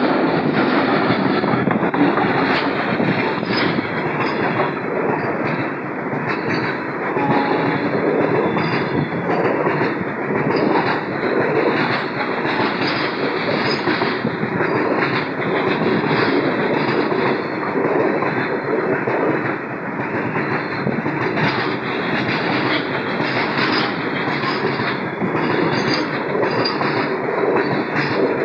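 Indian Railways train running, a loud steady rumble with wheels clicking over the rail joints again and again.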